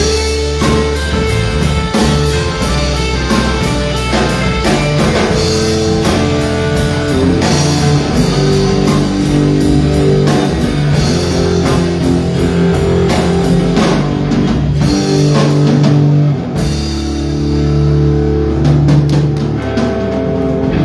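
Live band playing an instrumental passage of rock music with guitar and drum kit. The low end drops out for a couple of seconds about two-thirds of the way through, then comes back in.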